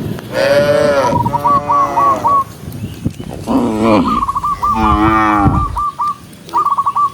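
Cattle mooing: several long, loud moos one after another, with a short high trill recurring between them.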